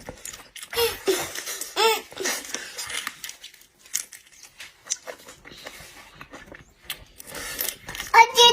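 Close-up eating sounds: seafood being bitten and chewed, with many small clicks and cracks and a few short high vocal sounds. A loud high-pitched voice comes in near the end.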